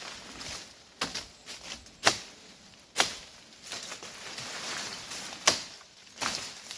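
Wood being chopped with a blade: a string of sharp strikes about once a second, some louder than others.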